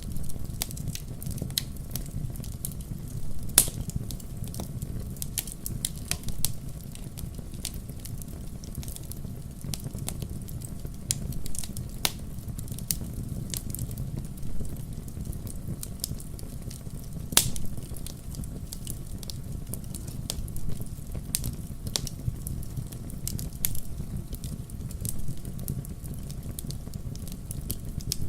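Firewood burning in a fireplace, crackling with many small pops over a steady low rumble; two sharper pops stand out, about three and a half seconds in and about two-thirds through.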